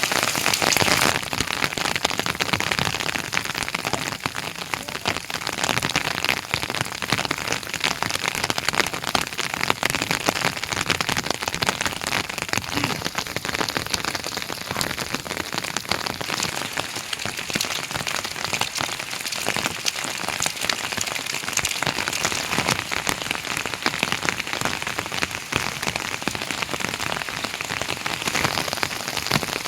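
Heavy rain falling, a steady hiss crowded with the ticks of individual drops striking.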